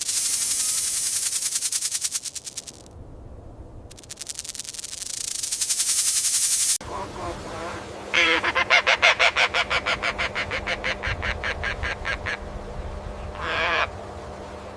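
Animal calls in rapid pulsed trains: two long, high, rattling trills in the first half, then a lower, harsher series of about six pulses a second.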